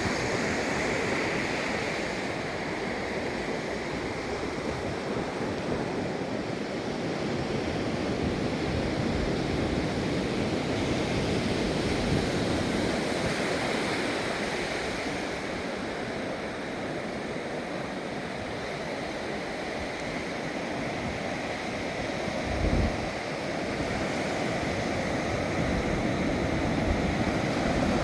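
Ocean surf breaking, a steady wash that swells and eases over several seconds. A short low thump of wind on the microphone comes about three-quarters of the way through.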